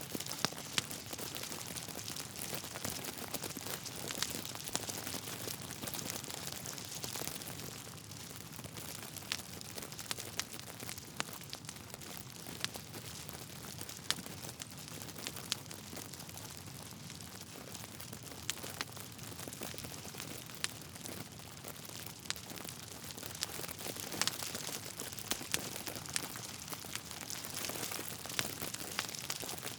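Wood fire burning in a fireplace: a steady soft hiss with frequent sharp, irregular crackles and pops from the logs.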